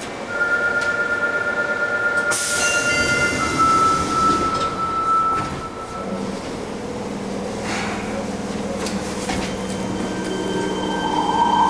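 Fukuoka City Subway N1000-series train running, heard from inside the car: rumble from the track under steady electric whine tones from the traction equipment. The whine is part of this car's abnormal noise, which recalls the jet-like sound of the JR 811 series. A wavering higher squeal rises near the end.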